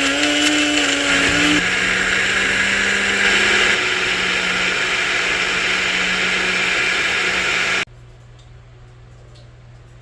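A small electric kitchen appliance motor, blender-type, running at high speed with a dense whirring noise. Its pitch steps down a couple of times, and it switches off abruptly about eight seconds in, leaving faint room tone with a few small clicks.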